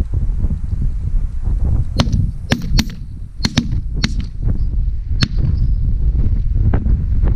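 A rapid volley of shotgun shots from several hunters, about seven sharp reports within three seconds, each with a short ring. Heavy wind noise on the microphone runs underneath.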